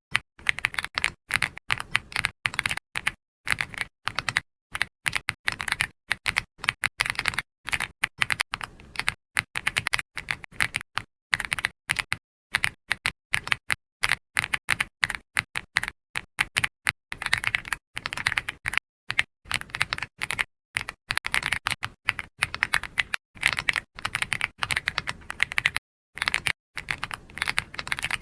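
Computer keyboard typing in quick runs of key clicks, with short pauses between bursts.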